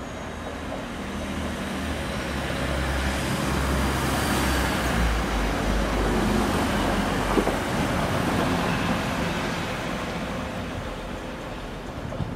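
TransPennine Express train passing close by along the platform line, its engine hum and wheel-on-rail noise building to a peak about halfway and then fading.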